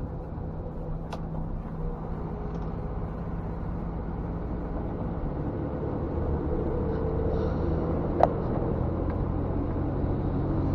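Scania G460 truck's diesel engine and road noise heard from inside the cab, a steady drone that grows a little louder about six seconds in. Two sharp clicks cut through it, the louder one about eight seconds in.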